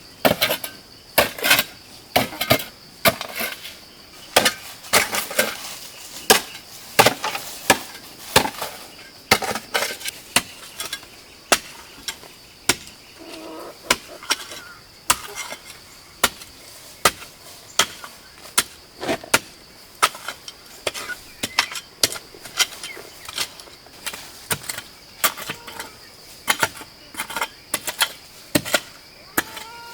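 Steady, repeated blows of a hand tool, one or two a second, the rhythm of hand work such as chopping or digging. Insects drone steadily throughout.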